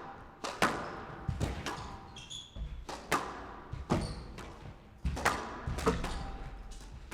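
Squash rally: a ball struck by rackets and cracking off the court walls, a sharp echoing hit about every half-second to one second.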